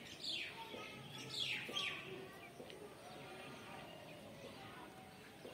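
Birds calling: three quick calls sliding downward in pitch in the first two seconds, then fainter chirps over a quiet steady background.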